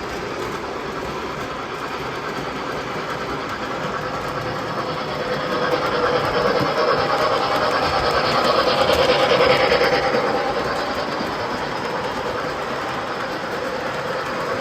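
MTH model train running on its track, growing louder as it comes close about nine seconds in, then fading as it moves away.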